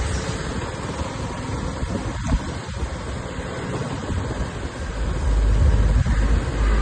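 Road traffic noise: a steady low rumble of vehicles that grows louder about five seconds in.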